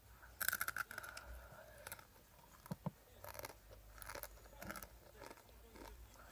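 A dry, crunchy snack being bitten and chewed close to the microphone, in several bursts of short crackling crunches.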